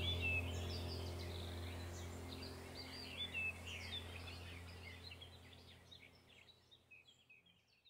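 Small birds chirping and twittering over a low steady drone, the whole sound fading out gradually to silence near the end.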